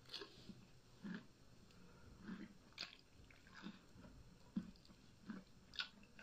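Faint, close-miked chewing of a mouthful of instant noodles, with soft wet mouth smacks and clicks coming irregularly, about once a second.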